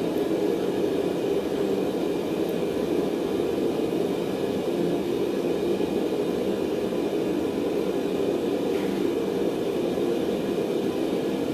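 A gas forge's burner running with a steady, even roar, with no hammer blows.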